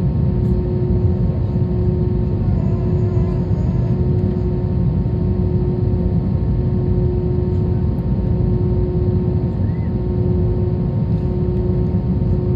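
Steady low rumble inside the cabin of an Airbus A321 on the ground after landing, with a constant hum tone running through it.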